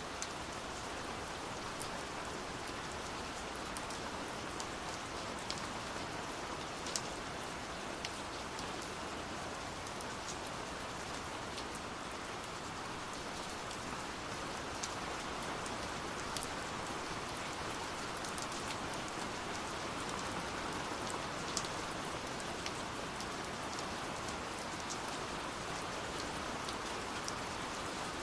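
Steady rain falling, an even hiss with scattered sharp drops landing close by.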